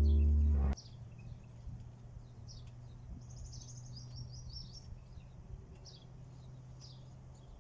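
A held music chord cuts off abruptly under a second in, leaving faint small birds chirping. The short calls are scattered throughout, with a quick run of them in the middle, over a low steady hum.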